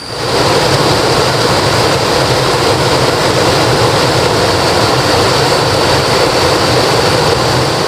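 Loud, steady rush of river water flowing close by, starting suddenly, with a thin high steady tone running above it.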